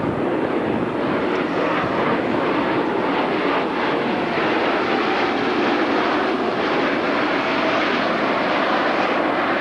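Jet noise from US Navy Blue Angels F/A-18 Hornets in flight, a loud steady roar of their twin turbofan engines that holds without a break.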